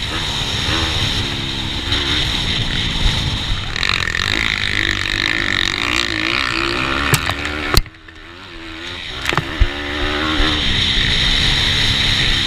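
Racing pitbike with a 160cc single-cylinder engine running hard, its revs rising and falling over and over. Near eight seconds the sound suddenly drops off, as when the throttle is shut, then builds back up.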